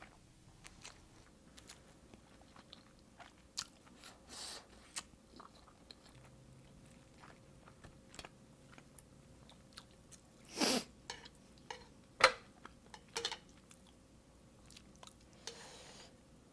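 A person chewing and eating food close to the microphone: soft, wet mouth clicks and smacks scattered throughout, with a few louder, brief eating noises a little past the middle.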